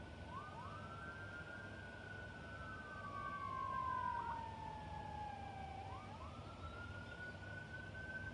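A distant emergency-vehicle siren wailing, its pitch gliding slowly down and then jumping back up, with two siren tones overlapping.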